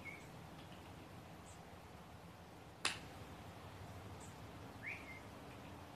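A small bird giving faint, short upward-sliding chirps, one at the start and another about five seconds in, with a few fainter high peeps between. A single sharp click a little under three seconds in is the loudest sound.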